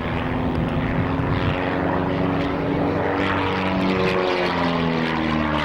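Edge 540 aerobatic monoplane's piston engine and propeller droning as it displays. The pitch shifts, sliding down about two thirds of the way in and climbing again near the end.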